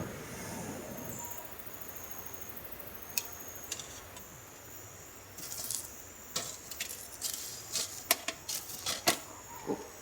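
A run of small, sharp clicks and clinks, sparse at first and coming thick and fast in the second half, over a faint steady high hiss.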